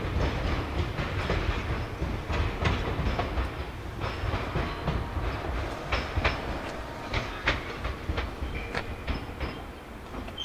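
Meitetsu electric train running over pointwork, its wheels clattering irregularly over rail joints and crossings above a low rumble. The sound eases slightly toward the end, with a few short high wheel squeals near the end.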